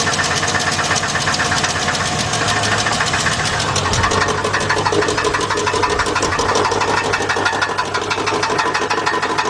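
A 2006 GMC Envoy XL Denali's 5.3 V8 running in gear with a rapid, even knocking. The knock comes from loose flywheel bolts at the torque converter.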